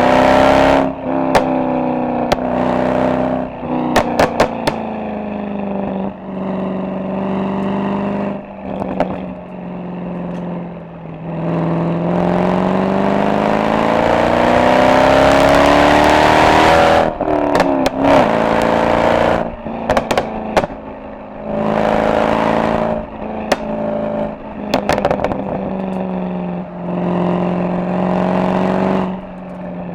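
Mercedes-AMG SL63's V8 exhaust under hard driving: the engine note climbs and falls repeatedly with throttle and gear changes, with one long climb through the middle. Sharp crackles come out each time the throttle lifts.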